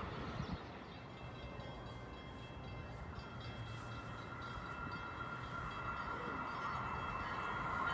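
Amtrak Acela high-speed train approaching in the distance: a low rumble with a faint steady whine, growing louder about three seconds in.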